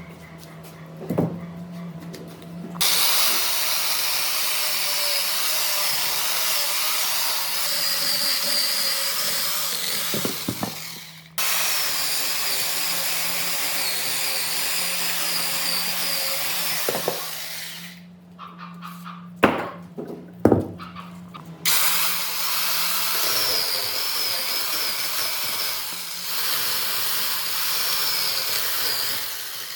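A power tool running on wood with a steady, wavering high whine. It starts a few seconds in, cuts out for a moment about a third of the way through, and stops for a few seconds past the middle, when a few sharp knocks are heard, before running again.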